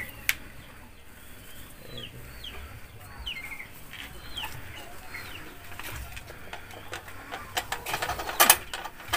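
A bird gives a run of short, falling chirps. Near the end comes a burst of clattering and rustling as a cloth sack is hooked onto a hanging dial spring scale.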